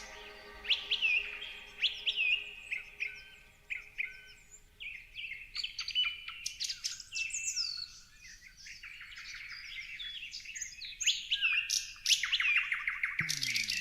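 Several small songbirds chirping and twittering in short, quick notes that often drop sharply in pitch, with a fast rapid series of notes near the end.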